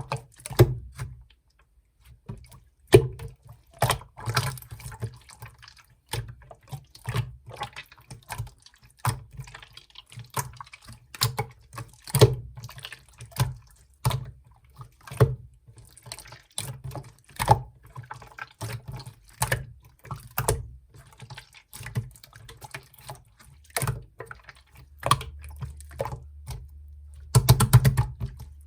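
Hands squishing and pressing clear slime, making irregular sticky clicks and pops, with a dense burst of crackling near the end.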